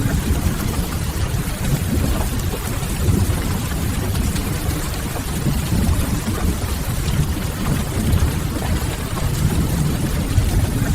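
Steady rain with a deep low rumble beneath it, and faint scattered crackles of a wood fire, forming one unbroken rain-and-fireplace ambience.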